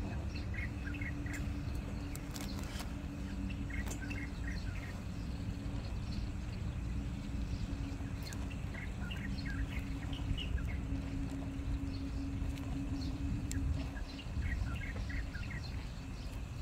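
Small birds chirping in short bursts every few seconds, over a steady low rumble and a faint hum.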